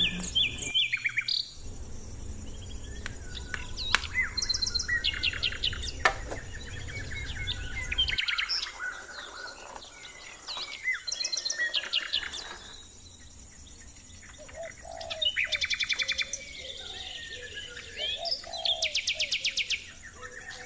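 Small birds chirping, with several quick high trills of rapidly repeated notes. A low background rumble runs under them and stops about eight seconds in.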